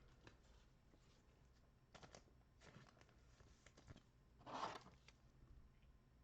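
Faint handling of trading cards and pack wrappers: light rustles and clicks, with one short, louder tearing sound about four and a half seconds in.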